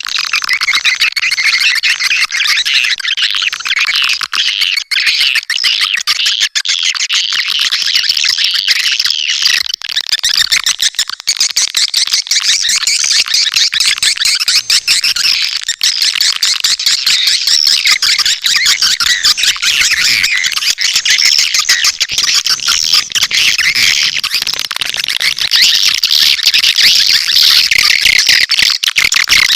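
Swiftlet lure-call recording: many swiftlets chirping and twittering densely and without a break, all in a high register with nothing low beneath it.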